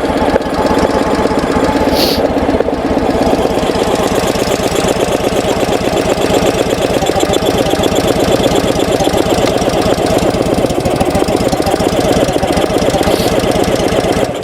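Log splitter's small gasoline engine running on starting fluid during a cold start in about 10 °F weather, with a steady rapid firing beat. It falls away at the very end.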